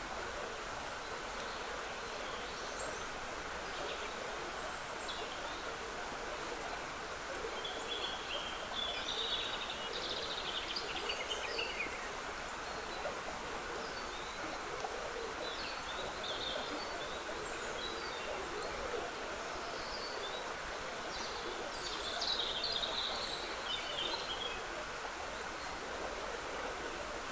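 Steady trickle of a woodland stream with songbirds singing over it in short phrases, busiest about a third of the way in and again near the end.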